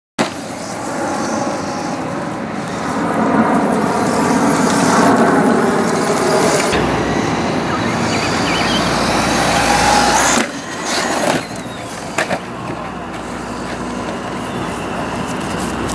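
Electrix RC Circuit 1/10-scale electric stadium truck running, its upgraded 15-turn motor whining up and down in pitch over the rattle of tyres on the ground. A few sharp knocks come about ten to twelve seconds in.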